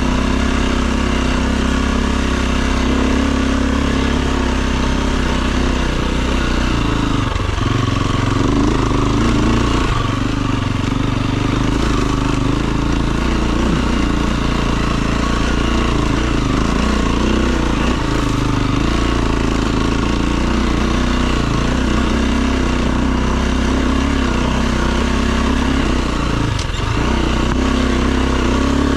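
Enduro dirt bike engine running under changing throttle, its pitch rising and falling as the bike is ridden, with brief drops in revs about seven seconds in and near the end.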